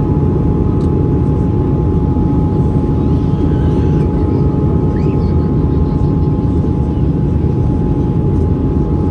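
Cabin noise inside an Airbus A320-214: the steady, loud rumble of its CFM56 turbofan engines and airflow, with a few steady whine tones over it.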